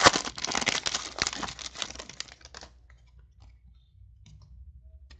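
Foil wrapper of a trading-card pack crinkling and tearing as it is opened, for about the first two and a half seconds, then a few faint clicks as the cards are handled.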